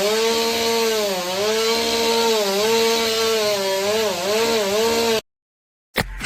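Power saw running at a steady high pitch that sags again and again as it bites under load, then cuts off abruptly about five seconds in.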